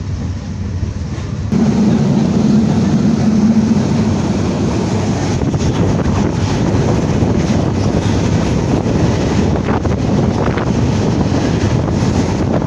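Moving passenger train: a steady rumble of wheels on the rails with wind on the microphone. The noise jumps suddenly louder about a second and a half in.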